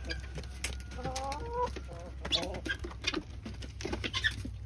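Chickens clucking, with a longer stepped call about a second in, over scattered short clicks.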